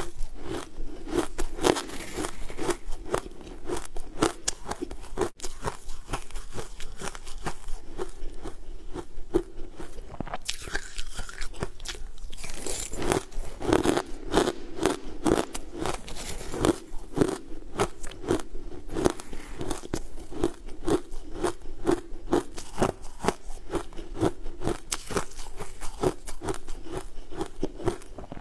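Close-miked crunching and chewing of crumbly frozen food, dense crisp crunches following one another steadily with a chewing rhythm underneath.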